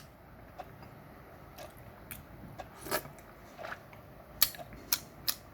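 Quiet eating at a table: a scattering of short clicks and taps from utensils and chewing, with a few sharper clicks near the end.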